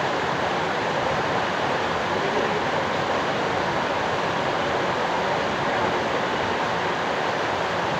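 Steady, even rush of water at a hot sulfur-spring bath.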